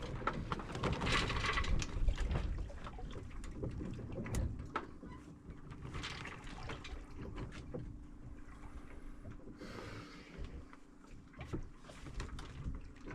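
Water rushing and swishing past a sailboat's hull, swelling and easing every few seconds, with scattered clicks and knocks.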